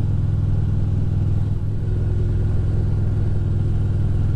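Motorcycle engine running steadily without revving: a constant low drone.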